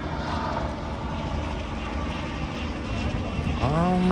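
Steady low drone of a propeller airplane engine, heard over outdoor background noise. A short pitched tone rises and levels off near the end.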